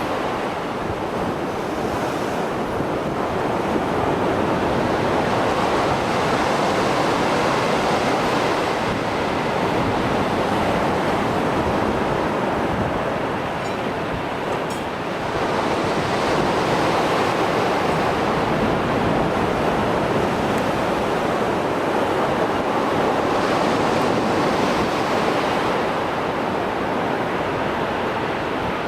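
Mediterranean Sea waves breaking and washing on the shore after a storm, a continuous rushing surf that swells and eases every several seconds, with some wind on the microphone.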